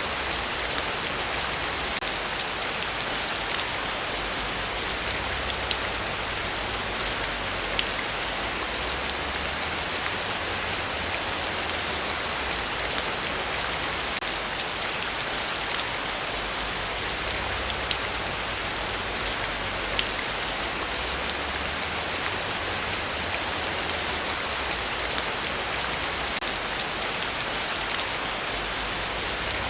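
Heavy rain falling steadily, a dense even hiss with many separate drop hits ticking through it.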